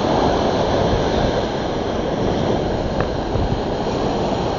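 Ocean surf washing at the shoreline, mixed with wind rumbling on the microphone: a steady rush of noise.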